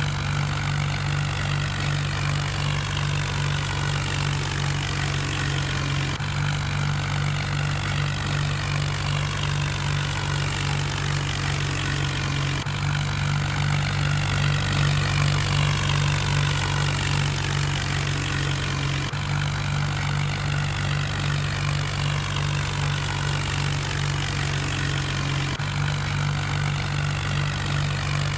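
Swaraj tractor's diesel engine running steadily at idle.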